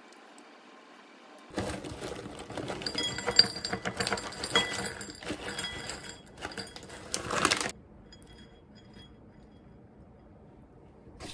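Small metal objects jingling and clinking together for about six seconds, starting about a second and a half in, with bright ringing tones among the clicks, then stopping.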